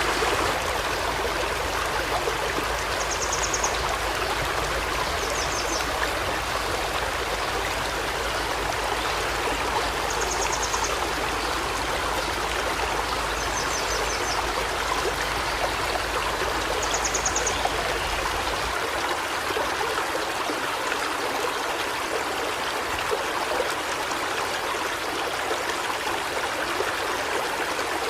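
Forest river flowing steadily over rocks. A bird gives a short high trill about five times, a few seconds apart.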